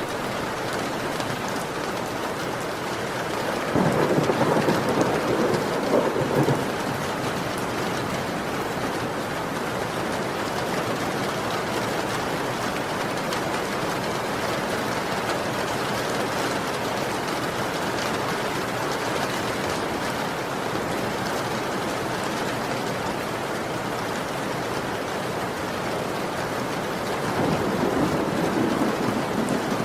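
Heavy rain falling steadily in a thunderstorm, with a rumble of thunder about four seconds in lasting a few seconds, and another near the end.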